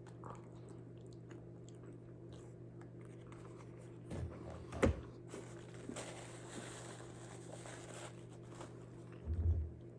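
Faint chewing of a mouthful of bean-and-ground-beef burrito, with small clicks, a sharp thump a little before the middle and a soft low thump near the end.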